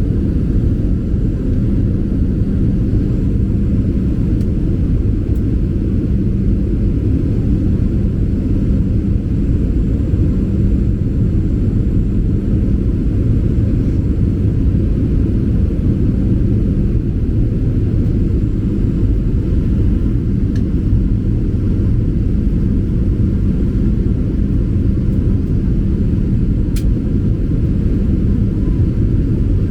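Cabin noise aboard a Boeing 737-800: a steady low rumble of engines and airflow with a faint constant hum, and a faint tick near the end.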